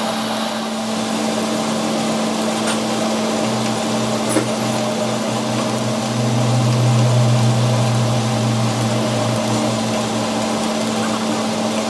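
A motor running steadily with a constant hum, its lower drone swelling for a few seconds in the middle, with a couple of light clicks.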